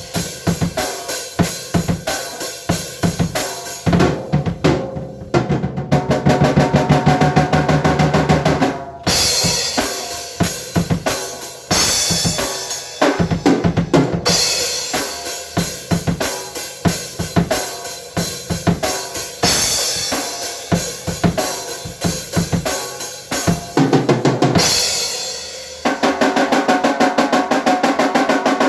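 A drum kit played in a fast, busy pattern of bass drum, snare and cymbal hits. Held pitched tones sound along with it for a few seconds about a fifth of the way in and again near the end.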